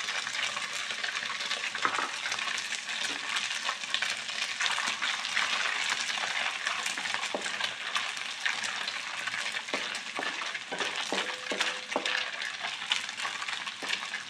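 Dried anchovies (ikan bilis) deep-frying in hot oil in a wok, a steady crackling sizzle. A wooden spatula stirs them, with a few knocks against the pan, most of them in the second half.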